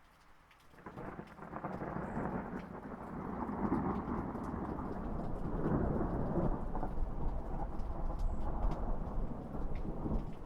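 Rolling thunder over steady rain: a low rumble swells up about a second in and keeps rolling, growing louder, through the rest of the stretch.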